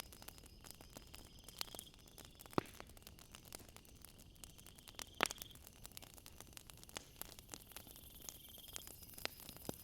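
Wood fire crackling with scattered sharp pops; the two loudest come about two and a half and five seconds in. Over it, insects trill in short high pulsed bursts that come and go.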